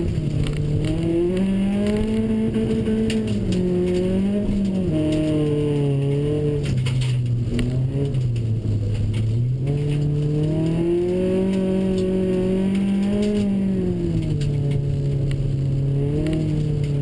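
BMW 318ti rally car's four-cylinder engine heard from inside the cabin, revving up and down as the driver works the throttle on snow. The revs sag lowest about eight to nine seconds in, then climb again.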